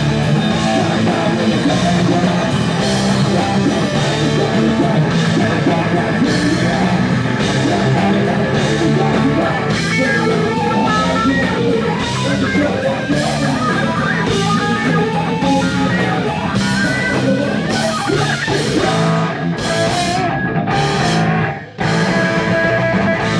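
Punk band playing loud, fast rock with distorted electric guitar and drum kit; the music drops out briefly about two seconds before the end, then comes back in.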